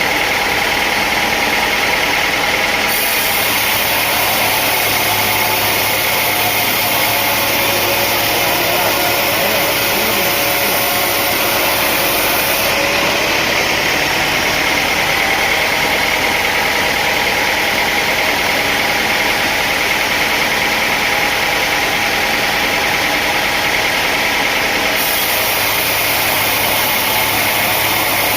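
Sawmill machinery running steadily, a loud continuous engine-driven noise with a steady whine in it, with small shifts in tone about 3, 13 and 25 seconds in.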